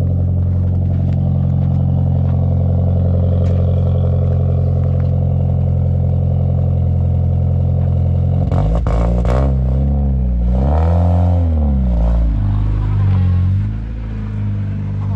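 Ford car with a loud aftermarket exhaust idling steadily, then revved several times in quick blips from about halfway through, the pitch rising and falling with each rev.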